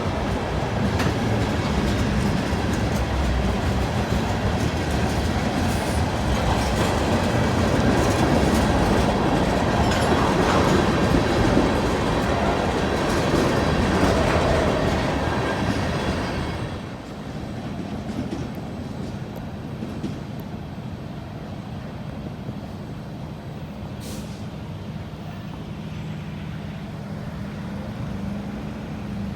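Manifest freight train rolling past, its cars' wheels clattering and rumbling on the rails. About two-thirds of the way through it drops to a quieter, steady rumble with a low hum.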